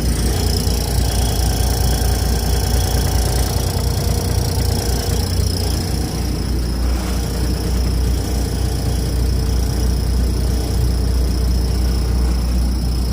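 Fuel truck engine running steadily at idle with its power take-off engaged: a deep even rumble with a thin, steady high whine over it.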